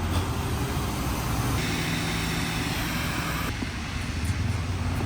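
An engine idling with a steady low hum, and a hissing rush of noise from about a second and a half in that lasts about two seconds.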